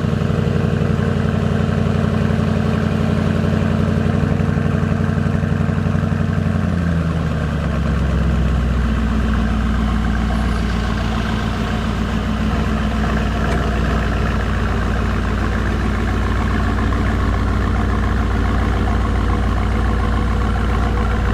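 Aston Martin Vantage S 4.0-litre twin-turbo V8 idling fast just after start-up, then dropping to a lower, deeper idle about seven seconds in.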